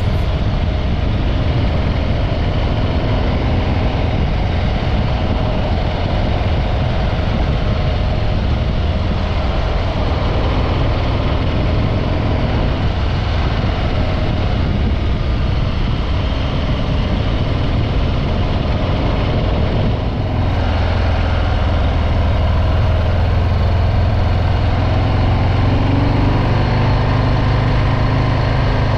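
Stock Harley-Davidson Breakout 114's Milwaukee-Eight V-twin running through its factory exhaust, a steady low engine note. About twenty seconds in the low note strengthens, and near the end its pitch rises as the engine revs up.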